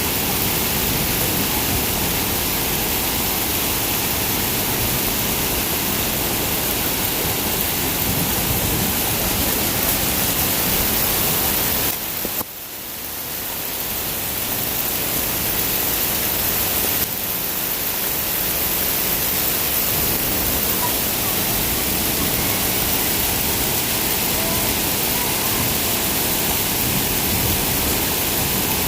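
Heavy rain falling steadily: a dense, even hiss. It dips suddenly about twelve seconds in and builds back up over the next few seconds.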